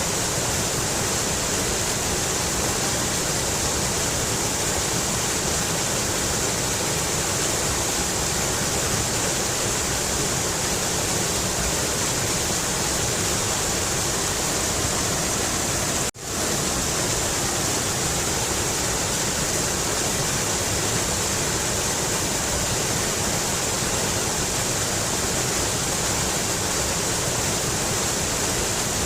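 Mountain river running: a steady, even rush of water, with a momentary cut to silence just over halfway through before the water sound resumes.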